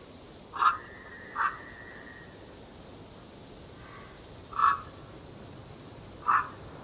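A bird in a forest giving short call notes, four in all at uneven intervals, two of them close together early on. A thin, steady whistled note is held for about a second and a half near the start, over a faint background hiss.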